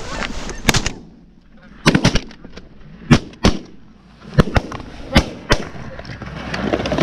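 A volley of shotgun fire from several goose hunters shooting together: about ten sharp shots over some five seconds, some overlapping in quick clusters.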